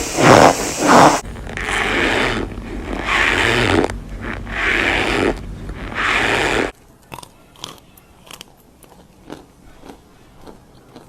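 Close-miked ASMR crunching: loud crunches at first, then a run of crunches about once a second. About two-thirds of the way in it drops suddenly to faint, scattered crackles.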